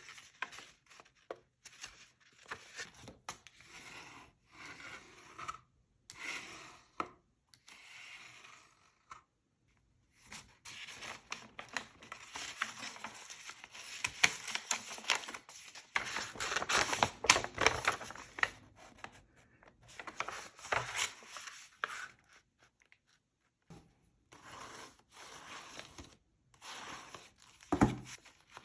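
Paper being handled and torn: irregular rustling, crinkling and tearing in short bursts with brief pauses, busiest in the middle. A single dull knock near the end.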